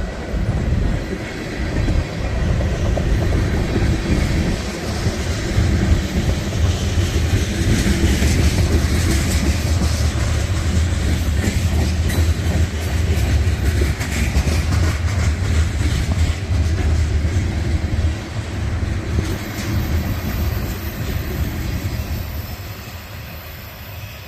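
Freight train rolling past at close range: a steady low rumble of the cars with wheels clicking over rail joints, easing off near the end.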